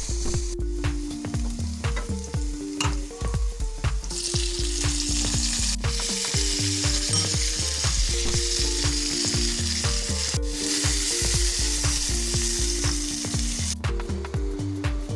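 Food sizzling as it fries in hot oil in a pan, the sizzle growing louder from about four seconds in until near the end. Background music with a melody and a steady bass beat plays over it.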